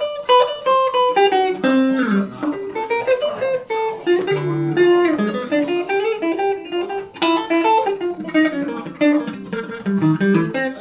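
Electric guitar, a Van Zandt Telecaster through a Roland JC-120 amp, playing a blues instrumental passage of quick single-note runs.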